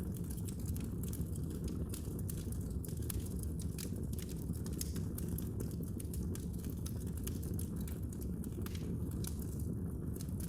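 Wood fire in a fireplace crackling, with many small sharp pops scattered irregularly over a steady low rush of the burning.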